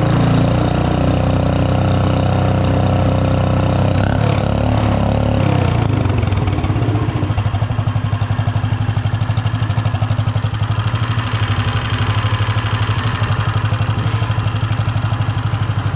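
6.5 hp single-cylinder small engine with an exhaust stack running on a test bench. About five seconds in it slows from a fast run to a lower, even, pulsing idle.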